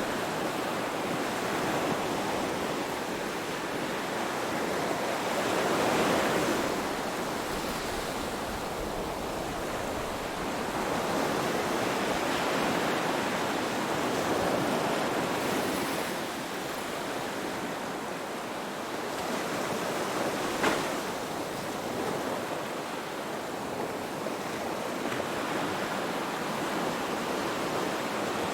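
Ocean waves washing in, rising and falling in slow swells, with one brief sharp click about two-thirds of the way through.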